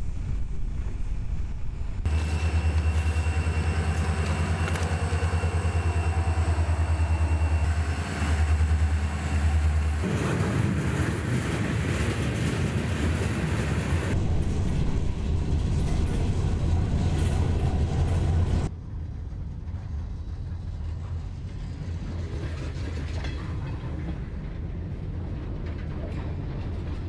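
Freight train passing: a Florida East Coast Railway diesel locomotive running, with railcar wheels rolling on the rails. It comes in several spliced takes that switch abruptly, and it is quieter after the last cut.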